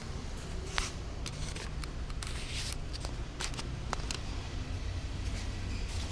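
Small objects being handled: scattered light clicks and short rustles over a steady low hum.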